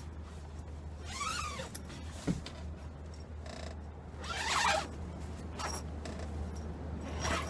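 A zipper on a fabric bag is pulled three times in separate runs, with a single knock about two seconds in, over a steady low hum.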